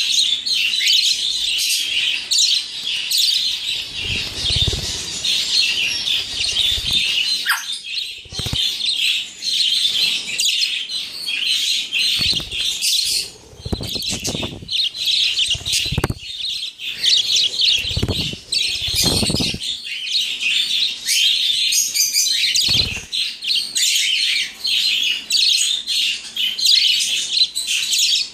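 Budgerigars chattering and chirping continuously in rapid, warbling chirps, with several short low thumps scattered through.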